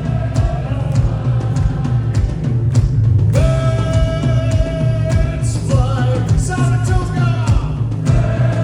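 Live rock band playing an instrumental passage: pounding drums and bass with long held melodic notes over the top, and no vocals.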